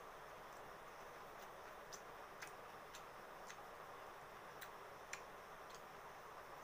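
Faint, sharp clicks of chewing and lip-smacking while eating rice and curry by hand, coming in runs of about two a second with short gaps, over a steady low hiss.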